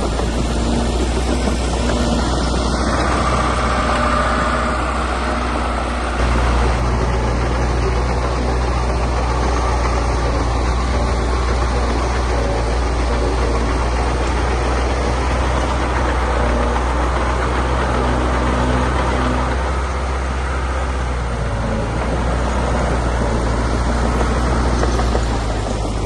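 Heavy earthmoving machinery's diesel engine running steadily, its low hum changing abruptly a couple of times.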